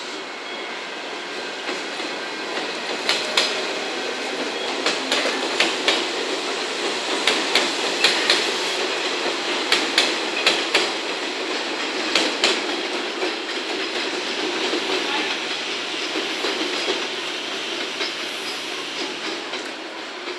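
JNR 105 series electric multiple unit (four cars) rolling past, its wheels knocking over rail joints in quick pairs on a steady running rumble. The knocks are loudest in the middle and thin out near the end as the train moves away.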